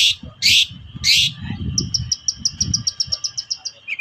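Long-tailed shrike singing: three harsh, rasping notes about half a second apart, then a fast run of short, high ticking notes at about eight a second.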